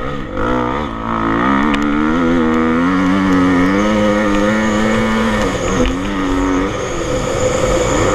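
Motocross bike engine revving as the bike rides the track: the pitch climbs in steps, holds high for a few seconds, drops off about two-thirds of the way in, then rises again.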